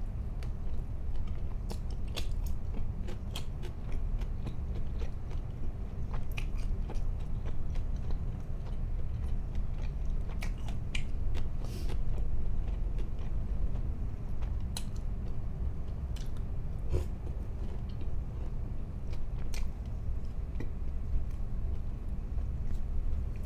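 A person chewing and biting food close to the microphone, with many scattered crisp clicks and crunches over a steady low hum.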